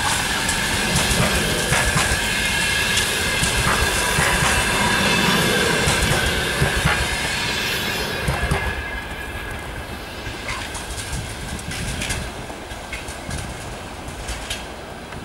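Passenger coaches rolling past: wheels clacking over rail joints, with a steady high squeal over the rumble. About eight seconds in, the last coach goes by and the sound drops away as the train moves off.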